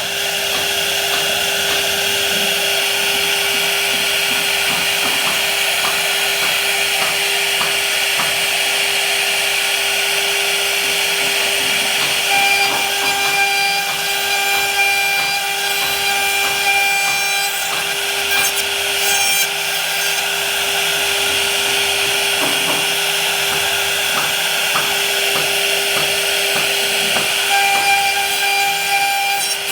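A power tool running steadily and cutting into wood, its motor holding one constant tone under a continuous grinding noise. Higher whining tones join in about twelve seconds in and again near the end.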